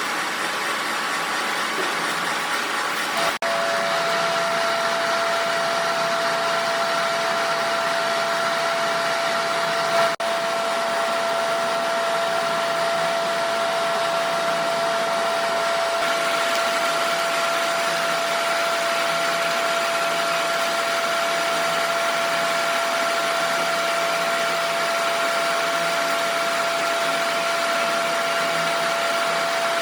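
Steady whirring machine noise, with a constant whine that sets in about three seconds in and holds to the end, broken by two brief cuts.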